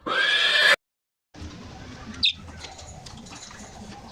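A bird gives one harsh squawk lasting under a second. After a short gap comes quiet background noise with a single brief chirp about two seconds in.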